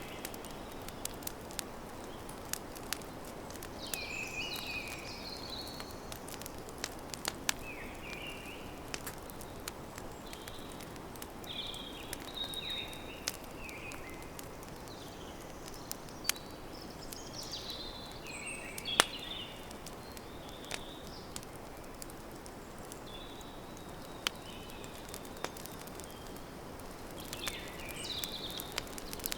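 Campfire crackling, with scattered sharp snaps over a steady low hiss and one loud pop about two-thirds of the way through. Birds chirp in short bursts now and then.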